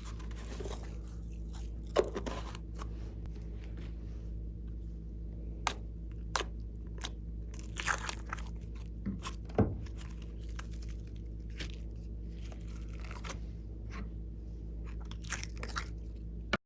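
Slime being squeezed and stretched by hand, giving irregular sharp crackles and pops over a steady low hum.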